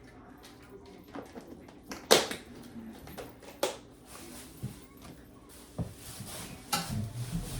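A few sharp knocks and clatters of things being handled, the loudest about two seconds in and another a second and a half later, then a stretch of rustling hiss with low thuds near the end.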